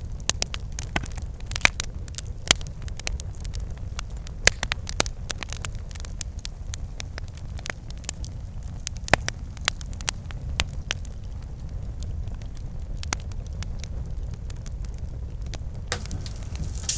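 Wood campfire crackling: irregular sharp pops and snaps over a steady low rumble of the flames, with a brief high hiss near the end.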